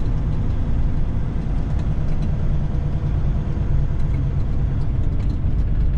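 Freightliner FLD120 semi truck's Caterpillar 3406E inline-six diesel engine running steadily, heard from inside the cab with a deep, even drone.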